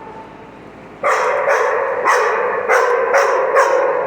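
Dogs vocalizing in rough play: starting about a second in, a loud drawn-out whining yowl with sharp yips or barks about twice a second.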